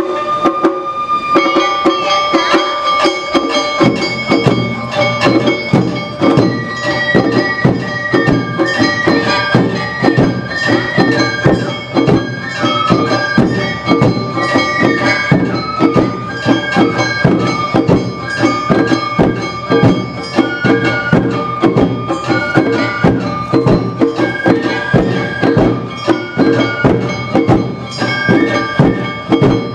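Awa Odori festival music played live: a high bamboo flute (shinobue) carries a stepping melody over a fast, steady beat of drums and a clanging hand gong. The deep drums come in about four seconds in.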